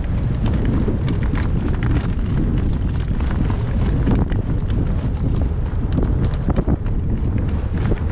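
Gale-force wind buffeting the microphone in a loud, continuous rumble, with the irregular clip-clop of a horse's hooves through it.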